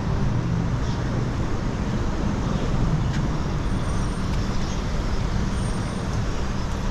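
City street traffic noise: a steady rumble of road vehicles running and passing close by.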